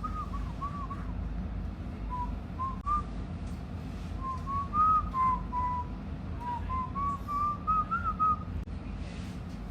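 A woman whistling a melody in short phrases, the notes stepping up and down, with brief pauses between phrases, over the steady low rumble of a moving train carriage.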